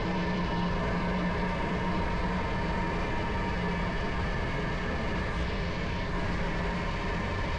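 Train running steadily past, a continuous mechanical drone with a low hum and no clear beat.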